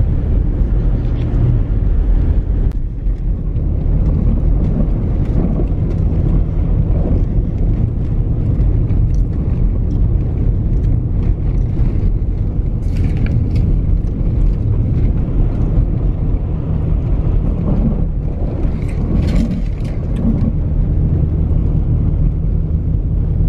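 Ford Expedition SUV driving down the road, a steady low rumble of engine and tyre noise heard from inside the cabin.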